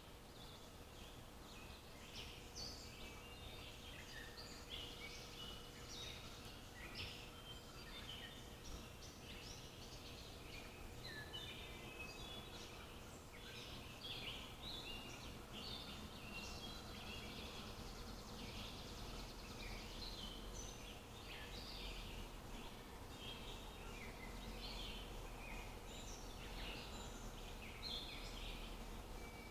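Several songbirds singing and chirping, many short high calls and trills overlapping, over a faint steady outdoor background.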